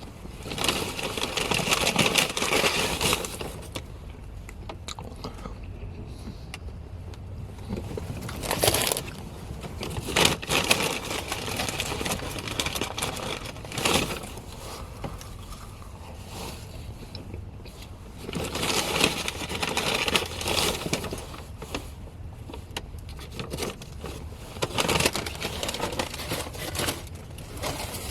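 Paper food wrapping and bag crinkling and rustling close to the microphone, in several stretches of a few seconds with quieter gaps between.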